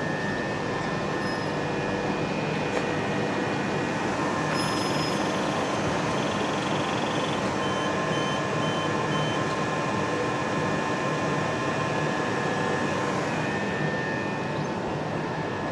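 Train at a station platform: the steady, even hum and whine of its equipment, with a short run of electronic beeps about halfway through.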